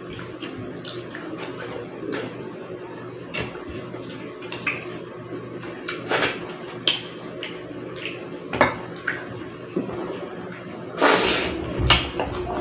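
Eating sounds of a mukbang meal of pork sinigang and rice: scattered small clicks and smacks of cutlery on a bowl and of chewing, over a steady low hum, with one louder noisy burst about eleven seconds in.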